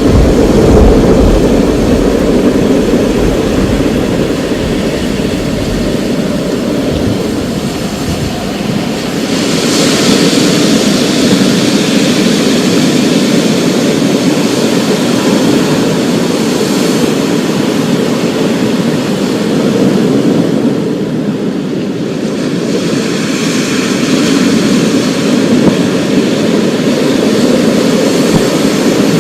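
Thunderstorm: the deep rumble of thunder dies away over the first several seconds, then a steady storm hiss goes on. The hiss swells about a third of the way in and again past two-thirds.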